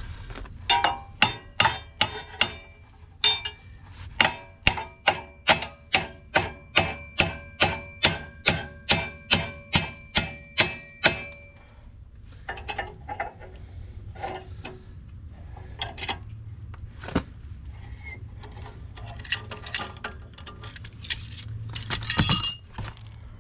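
Steel hammer blows on the skid steer's Quick-Tach plate parts, about two a second for some ten seconds, each strike ringing like struck metal. They drive the parts until the roll-pin holes line up. After that come scattered lighter metal taps and clinks, with a louder clatter near the end.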